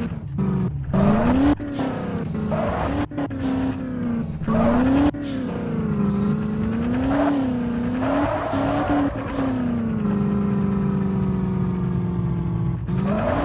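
Race car engines revving, their pitch rising and falling with throttle and gear changes, with some tyre squeal; the sound switches abruptly several times in the first few seconds, and near the end one engine holds a steadier, slowly falling, duller tone.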